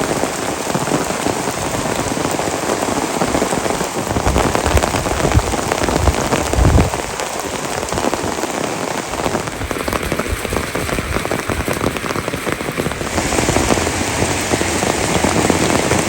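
Heavy rain falling steadily, a dense even hiss, with a few low thuds about four to seven seconds in.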